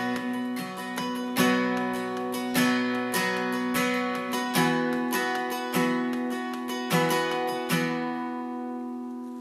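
Acoustic guitar strummed in slow chords with no singing; a last chord struck near the end is left to ring and fade.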